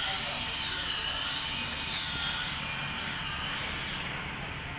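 Motorcycle scissor lift working: a motor whine that dips and rises about once a second, over a hiss that cuts off about four seconds in.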